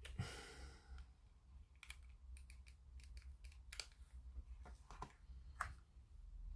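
Scattered light clicks and taps of small objects being handled at a hobby workbench, a dozen or so irregular ticks over a few seconds.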